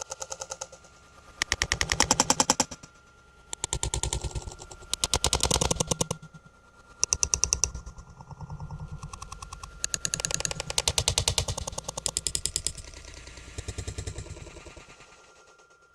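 Rapid rattling clatter, many knocks a second, coming in a string of bursts about a second long with short pauses between, over a faint steady tone.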